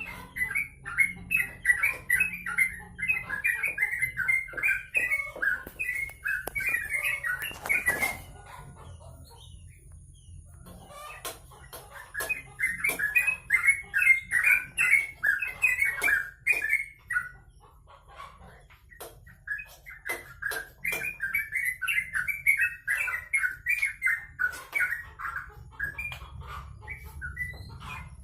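A kept songbird singing vigorously in three long bouts of fast, varied chattering notes, each several seconds long, with short pauses between.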